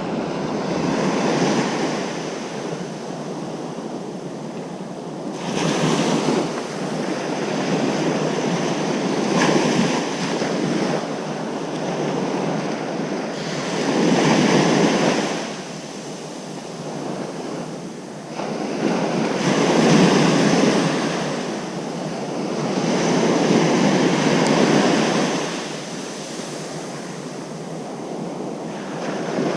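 Ocean surf breaking on a beach: a steady wash of waves that swells and fades every four to six seconds, with some wind on the microphone.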